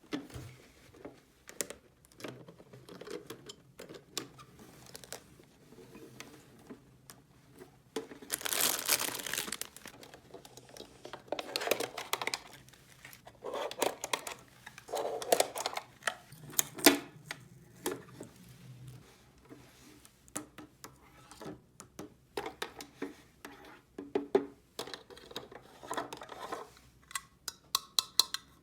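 Plastic packaging crinkling and tearing, with many small clicks and taps of plastic toy pieces being handled. The loudest stretch of rustling comes about eight seconds in.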